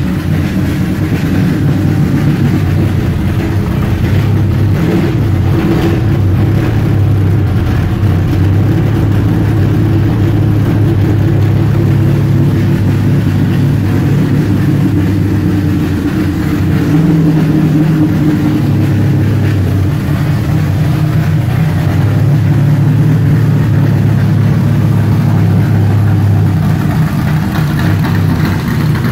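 Ford V8 of a 2006 Robert Yates Ford Fusion stock car running steadily just after startup, loud and deep. Its note steps up slightly a little over halfway through.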